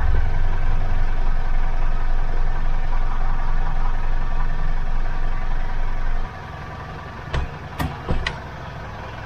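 Mitsubishi Montero Sport engine idling steadily, its running sound dropping away suddenly about six seconds in. A few sharp clicks follow near the end.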